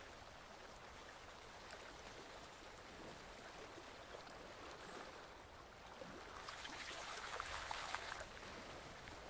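Forest stream flowing and trickling, with a louder stretch of babbling and splashing about two thirds of the way through.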